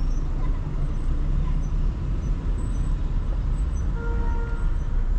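Steady low rumble of a car driving through city traffic, with engine and road noise. A faint brief tone sounds about four seconds in.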